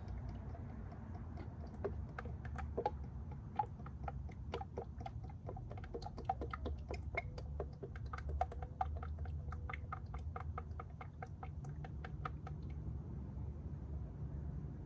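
Motor oil glugging out of a bottle into a funnel, a fast irregular run of small clicks and pops that stops about 13 seconds in, over a steady low hum.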